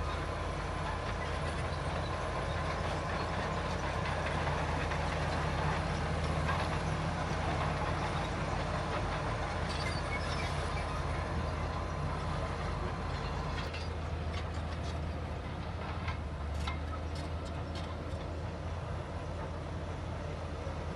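Heavy diesel earthmoving machinery running steadily under load, with sharp metallic clanks scattered through the second half.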